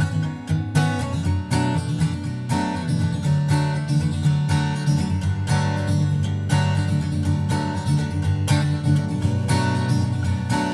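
Background music: an acoustic guitar arrangement, strummed and plucked with a steady rhythm.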